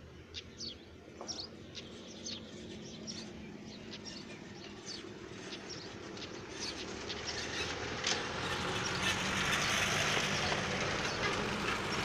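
Birds chirping in quick, short, high falling notes, several a second, thinning out over the first half. From about eight seconds a rushing noise swells and becomes the loudest sound.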